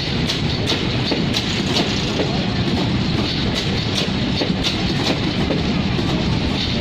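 Covered bogie freight wagons rolling past at speed: a steady rumble of wheels on rail, with sharp clicks repeating several times a second as the wheels cross the rail joints.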